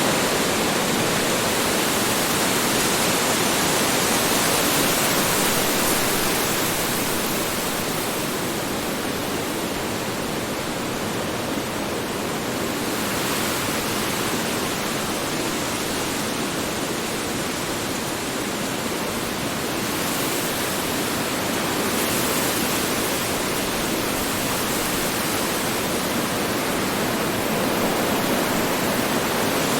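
Strong wind blowing as a steady rushing hiss, easing off a little for a stretch and then swelling again over several seconds.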